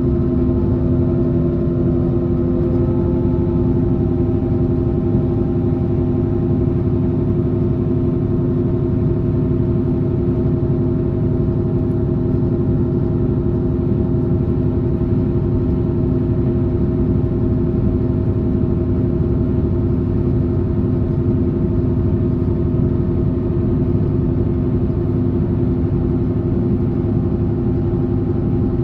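Train running sound heard on board: a whine from the drive with several steady tones, which finishes rising just after the start and then holds an even pitch, over a steady rumble of wheels on track. The train is running at a steady speed.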